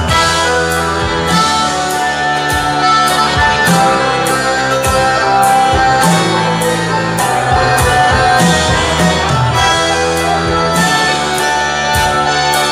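A live bluegrass-style band playing a song, with a steady drum beat of about two strikes a second under plucked strings and sustained melody instruments.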